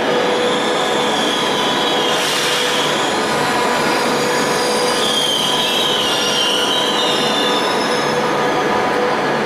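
Frecciarossa high-speed train running on the rails with a steady, loud running noise, and high-pitched wheel squeal twice: from about half a second to three seconds in, and again from about five to eight seconds in.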